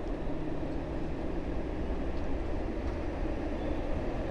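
Passenger coaches of the Tapti Ganga Express rolling past, the tail end of the train: a steady rumble of wheels on rail.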